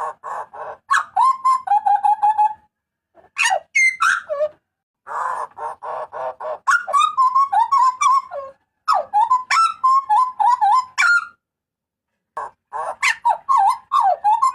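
Hooded butcherbird calling loudly in about five phrases separated by short pauses. Each phrase mixes a harsh, buzzy note with a quick run of ringing, warbling notes.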